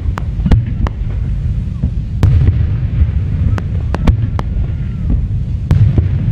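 Aerial fireworks display: about ten sharp bangs at irregular intervals over a continuous low rumble of shell bursts.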